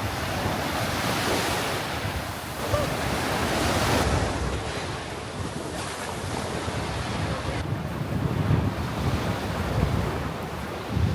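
Sea waves washing onto a beach, swelling and easing, with wind buffeting the microphone.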